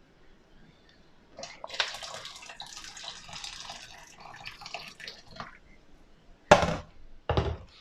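Hot water poured into standing water in the bottom of a dishwasher, splashing for about four seconds, to flush drain cleaner through a blocked drain. Two loud knocks follow near the end.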